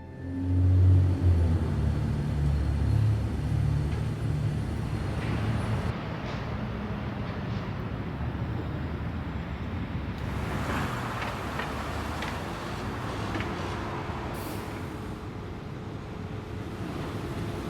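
City street traffic: a heavy vehicle's engine rumbles close by for the first few seconds, then gives way to steady street noise of passing traffic.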